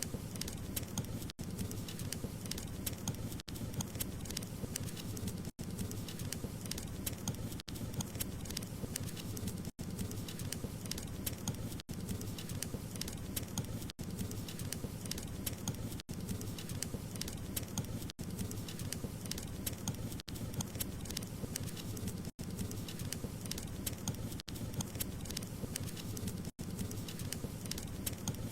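Wood fire crackling in a fireplace: a steady low rumble of flames under many small sharp pops and crackles, broken by a brief gap about every two seconds.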